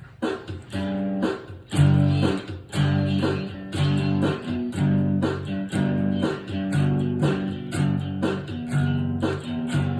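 Guitar music playing as a song's instrumental intro, with rhythmic strummed chords and a low bass line.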